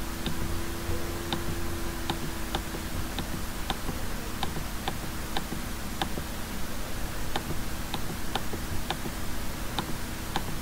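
Computer mouse button clicking over and over at an uneven pace, about one click every half-second to second, over a steady low hum.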